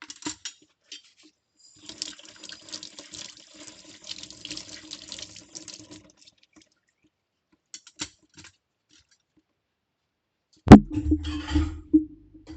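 Washing up by hand at a kitchen sink: a few small clinks, water running lightly for a few seconds, a pause, then a sharp knock and the tap running hard near the end.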